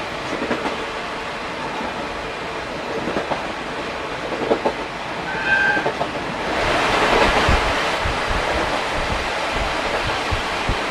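Running noise of an old-type SuHaFu 42 passenger coach hauled by electric locomotive EF58 61, heard from the coach end through an open gangway, with the rhythmic clickety-clack of wheels over rail joints. A short high note sounds about five and a half seconds in, and the noise grows sharply louder about six and a half seconds in as the train runs into the Shin-Matsukawa Tunnel.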